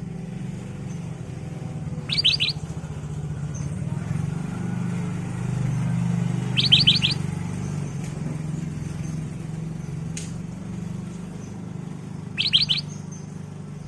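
Black-crested bulbul calling three times, each call a quick run of about four high notes, over a steady low drone that swells in the middle. There is a single click about ten seconds in.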